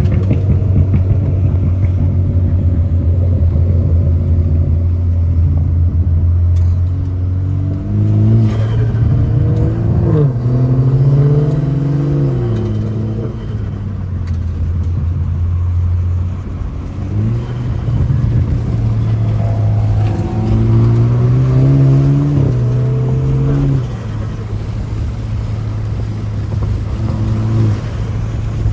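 BMW F30 328i's 2.0-litre turbocharged four-cylinder engine driven hard. It holds a steady note for the first several seconds, then makes a series of pulls: the pitch climbs under acceleration and drops away at each shift or lift-off.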